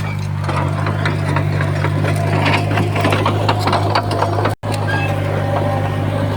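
Heavy diesel earthmoving machinery running steadily with a deep drone, under a rapid clatter of metallic clicks and rattles that is busiest between about two and four seconds in. The sound cuts out for an instant a little past four and a half seconds.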